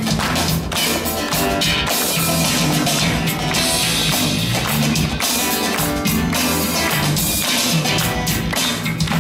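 Live band playing an instrumental groove with a prominent bass guitar line over drums and guitar.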